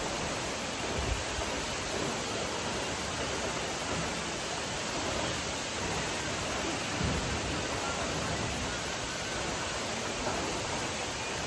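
Wli Falls, a tall waterfall, pouring: a steady, even rush of falling water.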